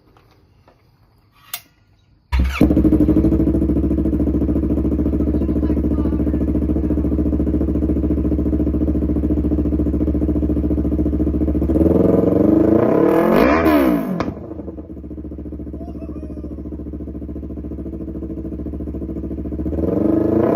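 Yamaha MT-03 motorcycle engine breathing through an aftermarket KO Lightning full exhaust: it starts about two seconds in and idles steadily, is revved up and back down once around the middle, settles to idle and is revved again near the end.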